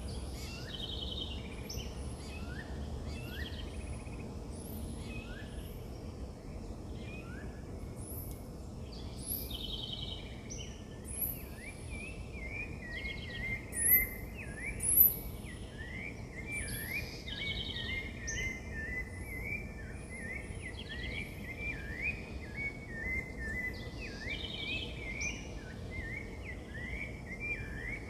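Several wild birds calling and singing together, with many short, high, sharply falling notes and buzzy trills. From about twelve seconds in, a fast run of repeated chattering notes joins them. Two high calls about halfway through are the loudest, and a steady low background noise runs underneath.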